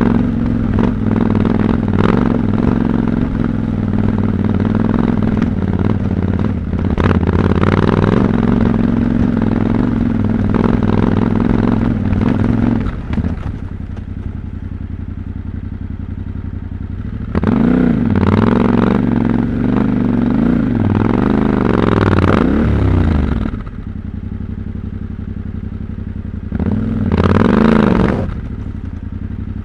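Yamaha Ténéré 700's 689 cc parallel-twin engine pulling at low revs over rough ground, with frequent clattering knocks. It drops to a quieter low-rev stretch, then gets repeated blips of throttle with revs rising and falling, and a last short burst near the end.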